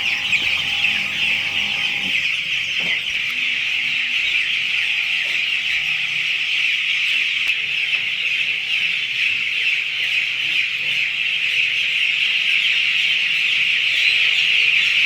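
A flock of nine-day-old broiler chicks peeping continuously in a dense, steady chorus.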